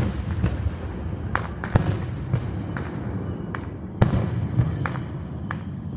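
Fireworks going off: scattered sharp pops and crackles over a low rumble, with a louder bang about four seconds in.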